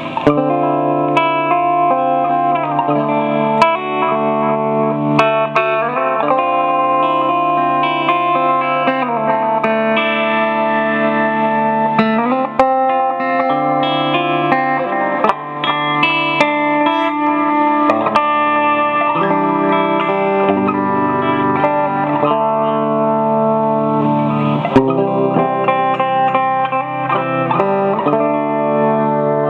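Fender Telecaster played clean through an Akai analog delay pedal into a Fender Deluxe amp: single notes and chords with the echoes overlapping and sustaining, and a few string bends.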